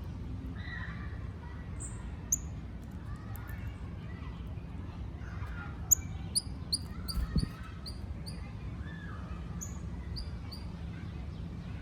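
Small birds chirping: scattered short, high chips, then a quick run of about eight in a row a little past the middle and a few more near the end. A brief low thump comes partway through the run, over a steady low background hum.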